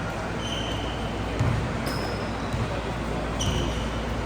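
Basketball game in a gym: a ball bouncing on the court with thuds, and several short, high sneaker squeaks.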